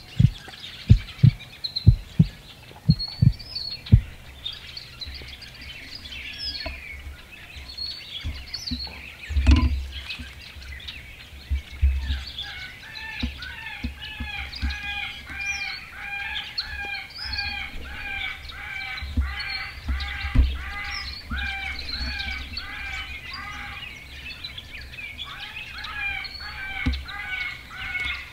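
Birds chirping, with a series of sharp knocks in the first few seconds. From about twelve seconds in, a pitched call repeats a little under twice a second.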